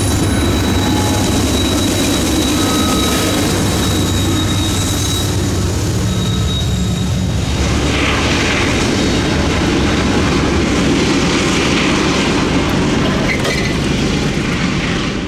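Norfolk Southern freight train passing close by, with its GE diesel locomotives running under load in a steady low drone over the roll of the cars. A thin, high wheel squeal rides on top for the first few seconds.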